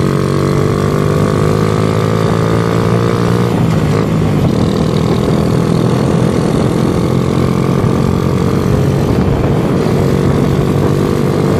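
Motorcycle engine accelerating under load uphill, its pitch rising steadily, then a gear change about three and a half seconds in. After the shift it runs on steadily under wind noise.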